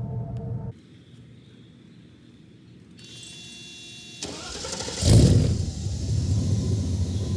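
Mercedes-Benz 560SEL's M117 V8 running, then stopping abruptly under a second in. After a quiet stretch it starts with a loud burst about five seconds in and settles into a steady idle through a single 3-inch exhaust with a Magnaflow muffler.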